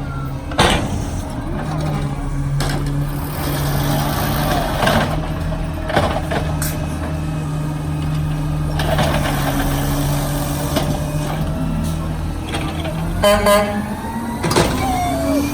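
Garbage truck's diesel engine running steadily, with occasional knocks and clanks.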